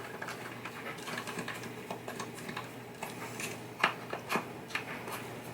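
Scattered light clicks and taps of small cracked playfield bases being handled, over a steady low hum.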